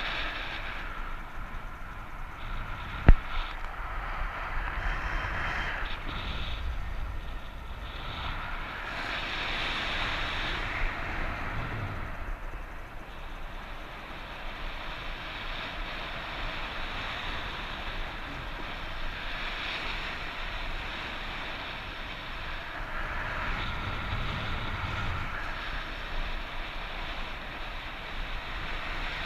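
Wind rushing and buffeting over the camera microphone in flight in strong wind, rising and falling in waves, with one sharp click about three seconds in.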